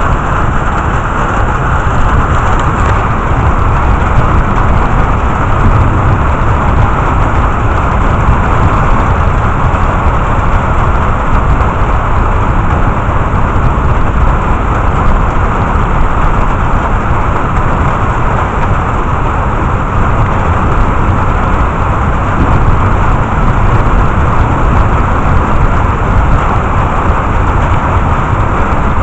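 Heavy thunderstorm rain falling steadily, a dense even hiss with a deep rumble underneath and no distinct thunder clap.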